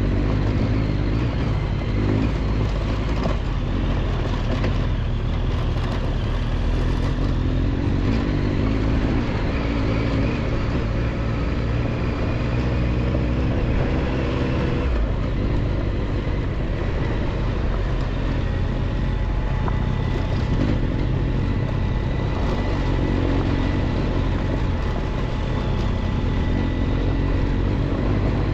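Triumph Tiger 1200 XCX's three-cylinder engine running as the motorcycle is ridden on a dirt road, its pitch rising and falling with the throttle.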